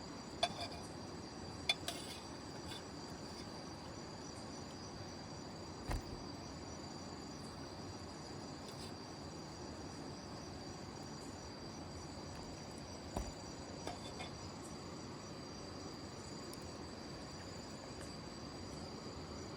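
Steady high-pitched chorus of insects, with a few faint clinks and taps scattered through it.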